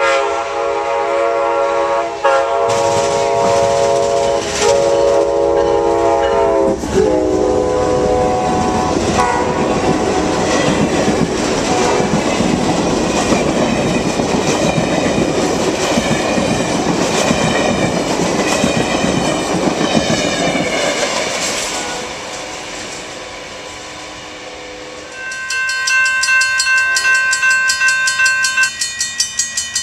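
A train passing: its multi-chime horn sounds and drops in pitch about seven seconds in as the locomotive goes by, then the cars roll past with a steady rush and wheel clatter that fades after about twenty seconds. Near the end a high ringing sound with quick regular strikes starts up.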